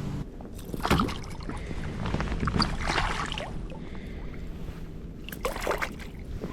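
A steady electric trolling-motor hum cuts off just as the sound begins. Then come intermittent splashing and knocking around a kayak, in three short clusters, as a hooked fish is brought in.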